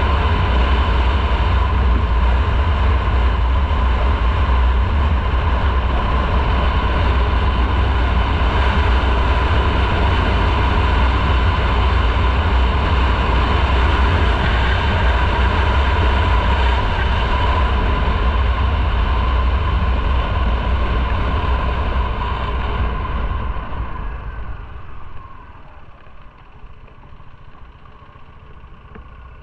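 Motorcycle riding at a steady speed, its engine and road noise under heavy wind rumble on the microphone. About 23 seconds in it slows and the noise falls away to a much quieter engine running near idle.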